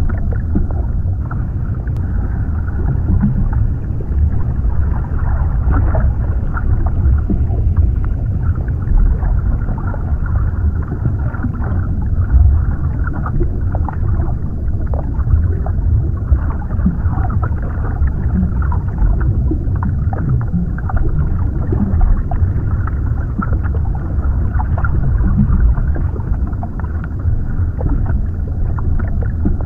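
Underwater ambience: a steady deep rumble with a constant scatter of small clicks and crackles throughout.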